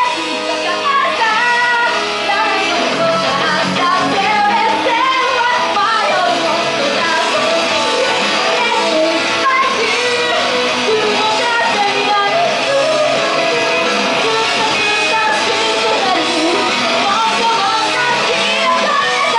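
Live pop-rock song: a female singer's voice over full backing music with guitar.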